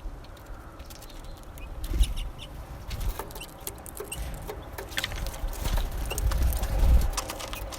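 Birds at a winter feeder: short call notes mixed with many sharp clicks and knocks, with low rumbling thumps about two seconds in and again near the end.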